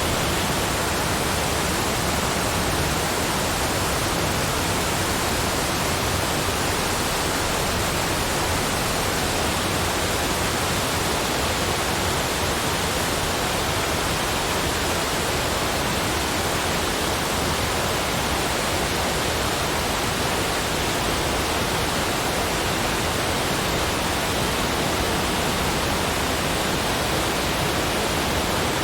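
Steady, even rushing noise that holds one level, with no distinct events.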